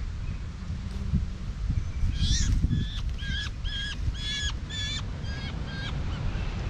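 A bird calling repeatedly: about eight short calls of steady pitch, roughly two a second, starting about two seconds in and stopping near the end, over a low wind rumble on the microphone.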